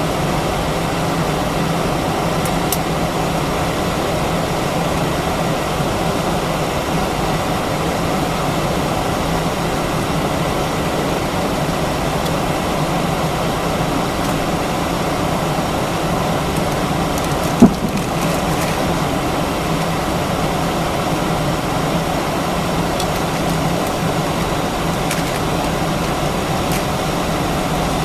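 Steady cabin noise inside an Airbus A319 with its IAE V2500 engines running at idle on the ground, an even hum and rush with no change in pitch. A single sharp click or knock stands out about two-thirds of the way in.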